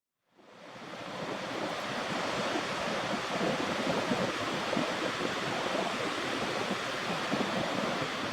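Pacific Ocean surf, a steady wash of breaking waves fading in during the first second, with wind buffeting the microphone.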